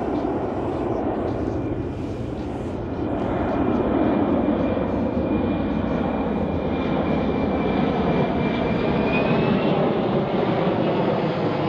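Airplane engines running loudly overhead, the noise building a few seconds in, with a faint high whine held through the middle.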